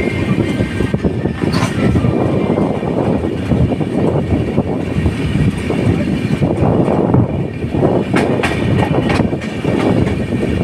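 The Rapti Sagar Express, an Indian Railways express passenger train, running along the track: a steady, loud rumble of wheels on rails with irregular clattering clicks.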